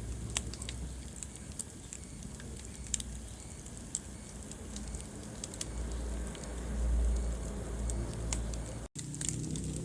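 Wood fire burning in a fireplace, crackling with scattered sharp pops over a low steady rumble of the flames. The sound cuts out for an instant near the end.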